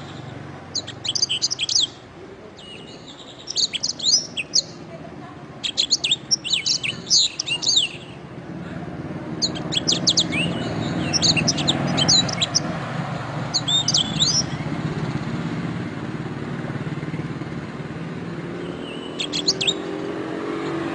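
Domestic canary singing in short phrases of rapid trills and sweeping whistled notes, with pauses between phrases and a longer pause near the end. A steady low background noise runs underneath and grows louder about halfway through.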